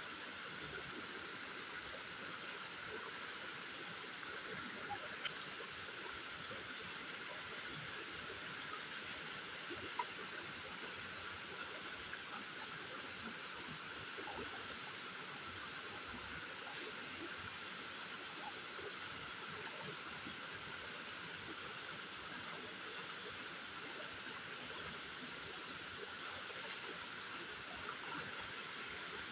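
Steady hiss of water, with a few faint ticks scattered through it.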